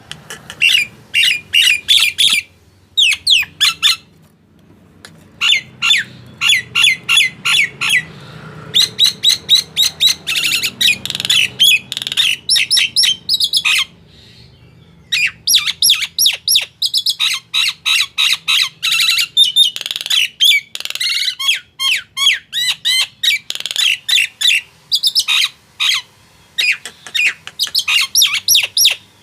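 Male Nias hill myna calling: rapid strings of short, loud, high notes in bouts of a few seconds, broken by brief pauses.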